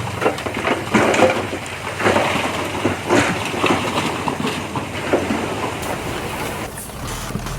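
Earthmoving machinery at work, with an uneven run of crunching and scraping as soil and rock are pushed and dropped.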